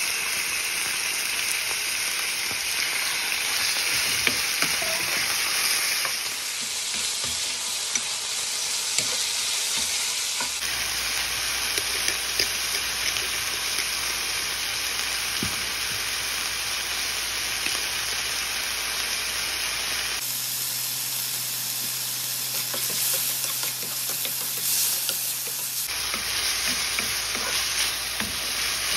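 Chunks of chicken frying in oil with sautéed garlic and onion in a nonstick frying pan: a steady sizzling hiss with scattered small pops. Near the end a wooden spatula stirs the pieces around the pan.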